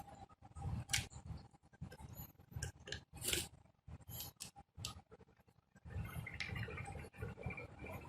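Scattered light clicks, taps and brief scrapes of small parts being handled during work on the restored engine starter, with a short quiet gap around five seconds in.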